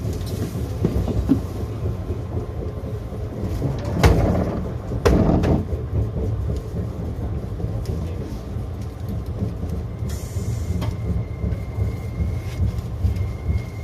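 Izukyu 2100 series 'Resort 21' electric train running along the track with a steady low rumble. Two loud rushing surges come about a second apart, around four seconds in. A faint high-pitched squeal joins from about ten seconds in.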